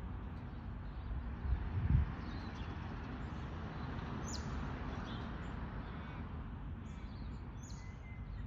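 Steady wind noise rushing over the microphone as a storm builds, with a brief low thump about two seconds in. Birds chirp faintly now and then.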